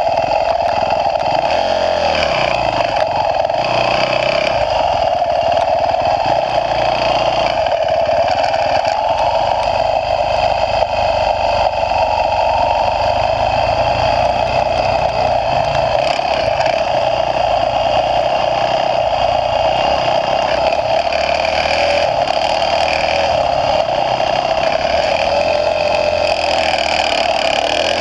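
Motocross bike engine running hard, its pitch rising and falling as the rider opens and closes the throttle around the track, heard through a GoPro camera's microphone.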